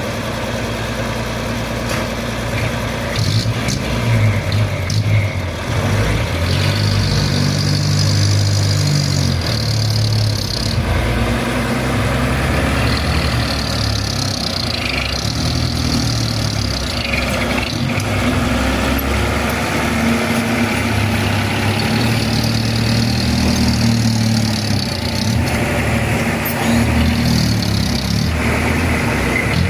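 Heavy diesel engine running and revving up and falling back, about four times, each rev held for a few seconds.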